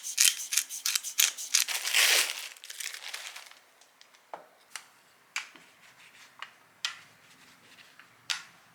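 Crinkling and rustling of something handled up close, dense for about three and a half seconds, then a few scattered light clicks and taps.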